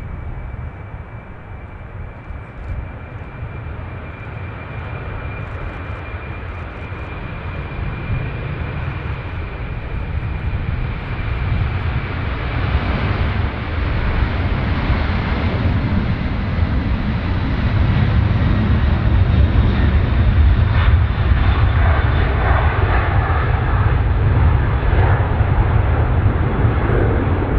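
Jet airliner engines, a dense rumbling noise that grows steadily louder as the aircraft comes closer. A thin high whine is heard at first and fades out by the middle.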